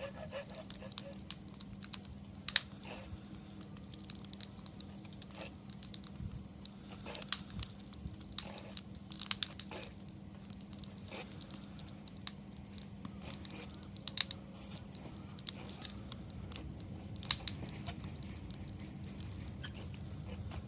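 Wood campfire crackling: scattered sharp pops and snaps at irregular intervals, a few of them louder.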